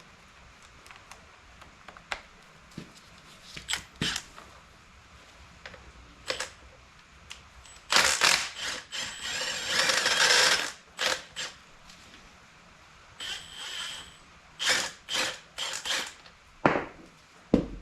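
Hand tools working on a small dirt bike's front axle to take the wheel off: scattered metal clicks and knocks, with a longer, denser stretch of tool noise about halfway through.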